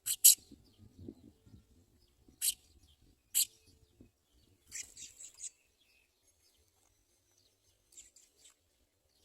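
House sparrow chirping: short sharp single chirps, then a quick run of four or five, and a fainter few near the end.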